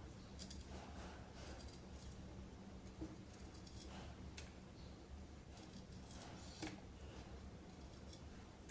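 Faint kitchen food-prep handling: scattered light clicks and crisp rustles over a low steady hum.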